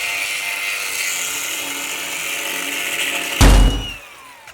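A grinder running steadily as it cuts out a cracked weld in aluminum. About three and a half seconds in there is a loud thump, and the tool is switched off, its whine falling as it spins down.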